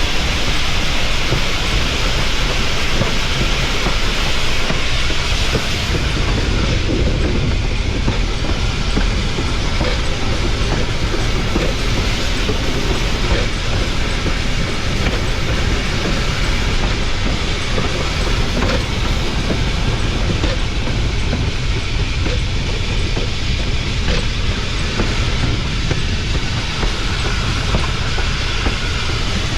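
Cumbres & Toltec narrow-gauge steam locomotive 488 rolling along the track: a steady rumble of wheels on rail with clickety-clack.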